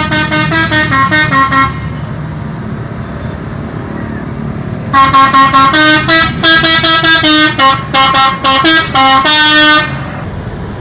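A multi-tone musical bus horn ("telolet" horn) playing a stepping tune twice: a short run at the start, then a longer one from about five seconds in until near the end. A steady engine rumble runs underneath.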